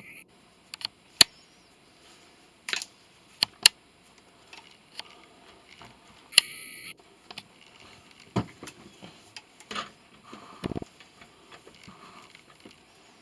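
Irregular clinks and knocks of metal scrap parts being handled, set down and tossed, with about ten sharp separate strikes and a duller, longer knock near the end.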